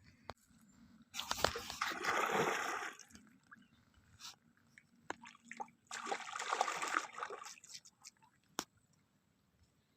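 Water splashing in two bursts of about two seconds each, with scattered small clicks and drips between them.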